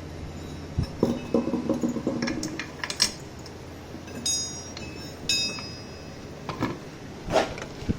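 Small metal parts clinking and tapping as the rear brake pads and wheel hardware are fitted by hand: scattered knocks, with two short ringing clinks a little past the middle.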